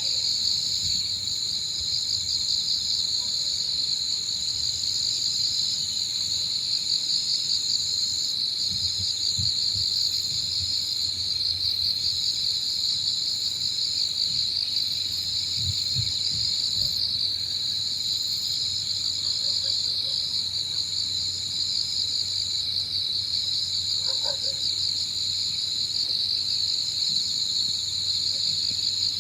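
A dense chorus of autumn crickets and other insects trilling steadily, one continuous high trill with a second, higher song that pauses briefly every couple of seconds. A few low gusts of wind rumble now and then.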